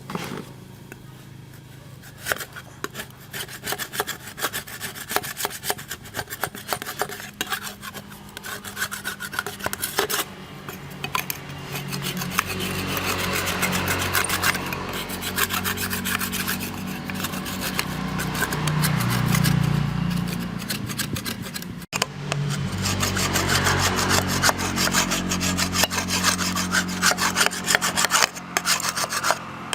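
Rapid, continuous scraping strokes of a hand tool rubbing on a hard surface. About twelve seconds in, a steady low hum joins; it cuts out briefly about twenty-two seconds in and then resumes.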